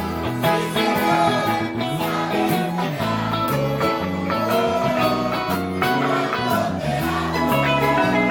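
Children's choir singing a lively church chorus medley over strummed guitar, bass and a steady beat.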